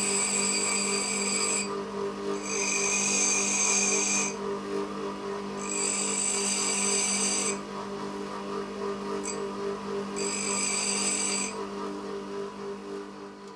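A small electric grinding tool running with a steady hum, with four passes of a steel wood drill bit against it, each giving a shrill, pitched whine about one and a half to two seconds long, as the bit is ground to shape.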